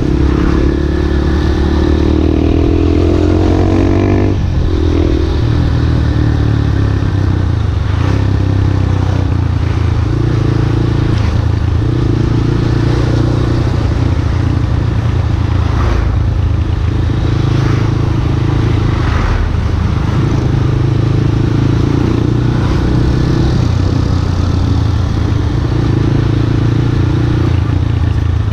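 Yamaha Scorpio Z single-cylinder four-stroke motorcycle engine running under way. Its pitch rises over the first few seconds and drops sharply a little after four seconds, as on a gear change, then holds steady with small changes in engine speed.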